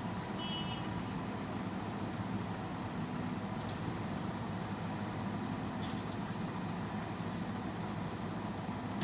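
Heavy diesel engine running steadily at a low, even drone, from an excavator or the truck being loaded.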